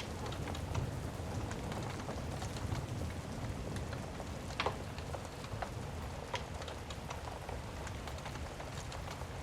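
Steady heavy rain with a soft low rumble of distant thunder underneath. A crackling fire adds scattered sharp pops, the loudest about four and a half seconds in.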